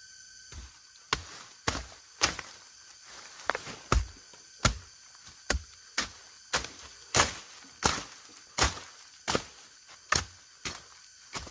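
A hand tool chopping in steady repeated strokes, about one every half second or so, over a steady buzz of insects.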